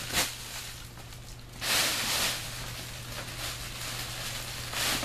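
A quilted emergency heat blanket rustling and crinkling as it is handled and spread out, with a louder burst of crinkling about two seconds in.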